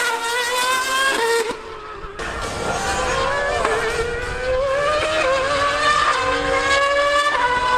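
High-revving racing engine accelerating hard. Its pitch climbs steadily, then drops back at each upshift, with a short lift about a second and a half in and further shifts later.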